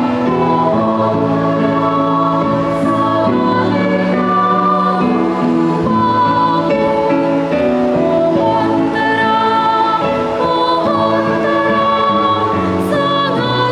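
Children's choir singing a Christmas carol in sustained, held notes.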